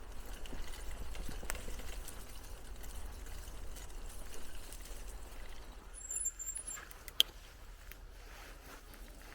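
Bicycle ride noise: tyres rolling on a path with small rattles and clicks, over a low wind rumble on the microphone. A single sharp click comes about seven seconds in.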